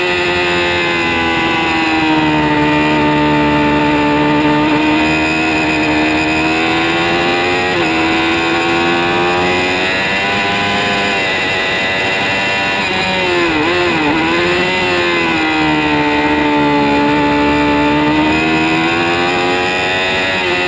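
2006 Kawasaki ZX-6R 636's inline-four engine running at high revs, its pitch holding fairly steady with a small step about a third of the way through. About two-thirds through the revs dip and rise again quickly, then climb and hold.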